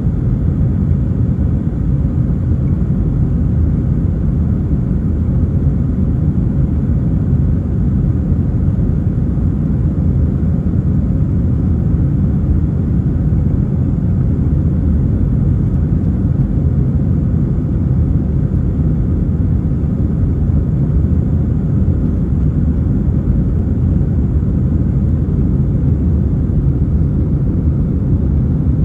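Steady, unchanging low rumble of an Airbus A320 jet airliner's engines and airflow, with a faint steady hum on top.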